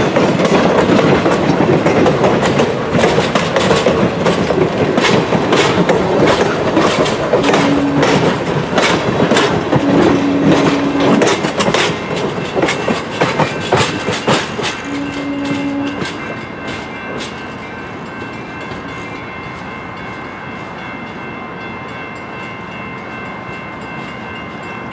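Passenger coaches of an excursion train rolling past, wheels clicking rhythmically over the rail joints, the rumble fading as the train draws away in the second half.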